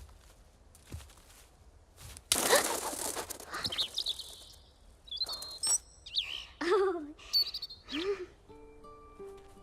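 Cartoon bird calls, high chirps and lower swooping calls, following a sudden loud rush of noise about two seconds in. Soft steady music notes begin near the end.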